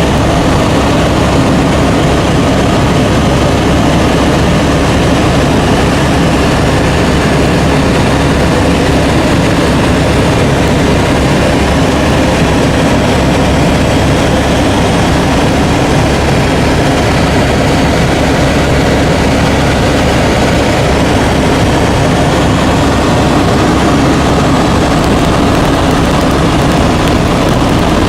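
Helicopter engine and rotor heard from aboard in flight: a loud, steady drone that holds at one level throughout.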